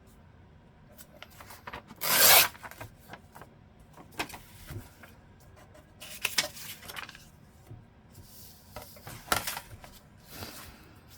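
Paper being handled: rustling and rubbing in irregular bursts, the loudest about two seconds in.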